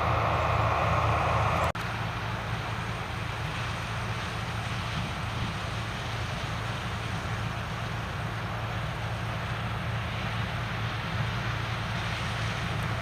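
Heavy farm machinery engines running steadily during corn harvest, a low hum with steady noise over it. A louder mid-pitched whine cuts off abruptly about two seconds in.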